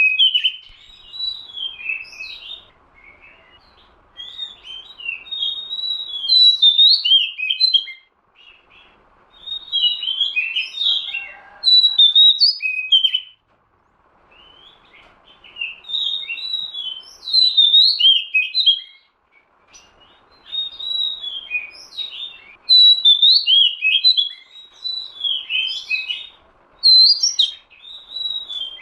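Oriental magpie-robin (kacer) singing: fast, varied whistled and chirping phrases in bouts of about five seconds, with short pauses of about a second between them.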